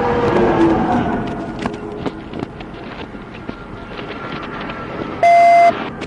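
Steady vehicle and road noise with scattered small clicks, and a loud, steady electronic beep lasting about half a second near the end.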